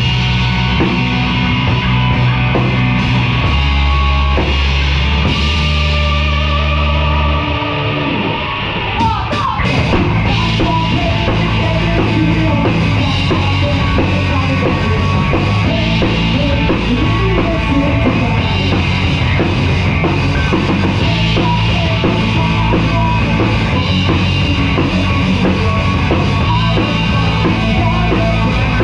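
Live rock band playing loud, with drum kit, guitar and bass. The held low notes break off about eight seconds in, and after a brief dip the full band plays on steadily.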